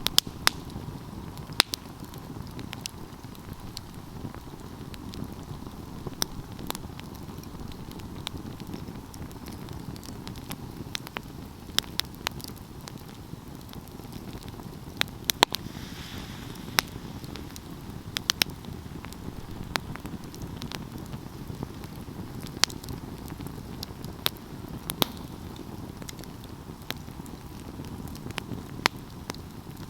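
Wood fire burning: a steady low rush of flame with sharp crackles and pops at irregular moments, a few of them loud snaps.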